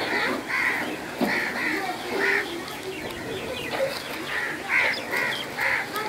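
Birds chirping: about ten short, sharp calls in quick, irregular succession, several birds overlapping.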